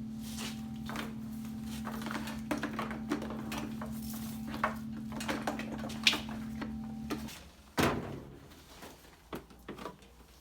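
A lawnmower motor running with a steady hum, clattering and knocking as it runs. It cuts out about seven seconds in, followed by a single heavy thump and a few faint knocks.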